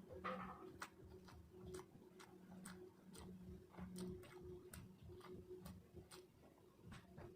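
Faint, irregular wet clicks and smacks of a mouth chewing food, two to four a second, over a faint low hum.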